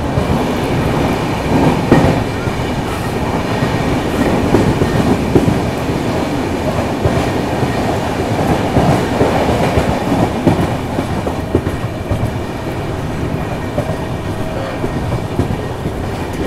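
Himsagar Express passenger train running through a station, heard from an open coach door: a continuous rumble of the wheels on the rails with irregular clicks and clacks over the joints.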